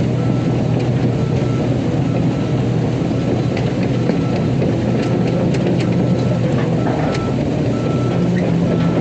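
Excavator's diesel engine running steadily, with a high warning beep repeating about every two-thirds of a second and a few short metallic knocks in the middle.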